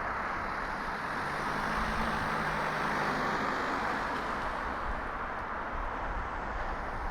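Street traffic: a car passing with a steady rush of tyre noise, and a low engine hum for a couple of seconds about a second in.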